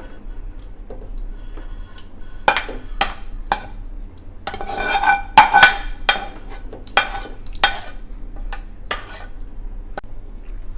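A metal spoon knocking and scraping against a metal cooking pot while chicken masala is spooned and spread over a layer of rice. There are about a dozen sharp clinks, some ringing briefly, with the busiest cluster near the middle.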